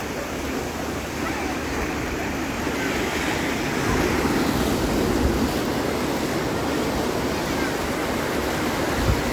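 Sea waves washing onto the shore: a continuous rushing that swells and eases every few seconds.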